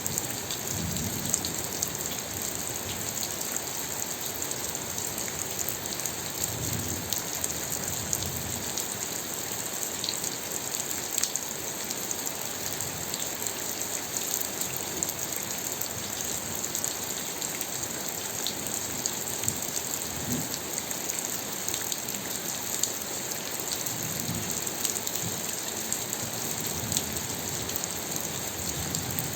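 Steady rain falling, an even hiss with many scattered sharper drop impacts.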